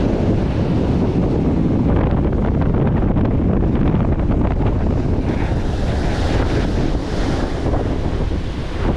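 Strong onshore wind buffeting the microphone with a loud, steady low rumble, over the wash of surf breaking on the shore.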